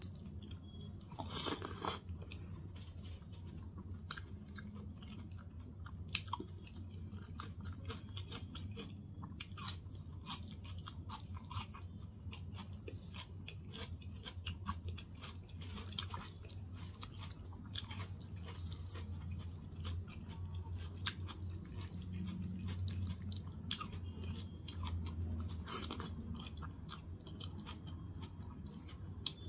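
A person chewing mouthfuls of dal and rice eaten by hand: close, wet chewing with many short clicks and smacks throughout, over a steady low hum.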